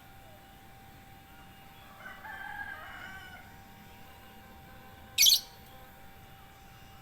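Kutilang emas bulbul singing a short warbling phrase of about a second, two seconds in. Near the end a brief, loud, sharp high-pitched hiss cuts in, louder than the song, over a faint steady hum.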